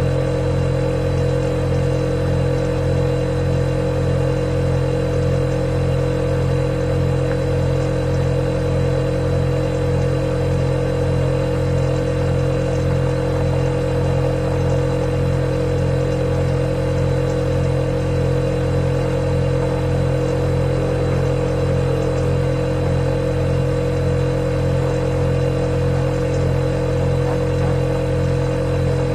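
Refrigerator running with a steady, loud, unchanging low hum, its compressor motor buzzing with a higher tone above it.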